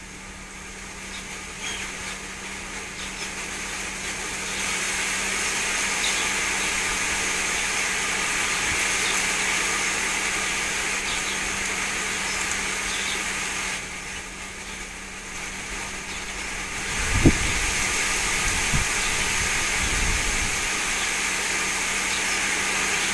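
Wind gusting over the microphone: a steady rushing hiss that swells, drops away for a few seconds and swells again, with a low buffeting thump of wind on the mic about two-thirds of the way in.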